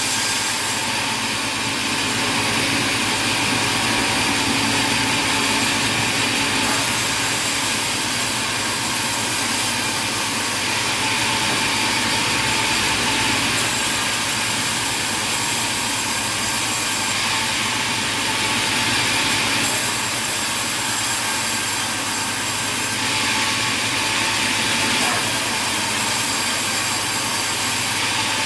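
Sawmill machinery running with a saw cutting wood: a dense, steady machine noise whose tone shifts every few seconds.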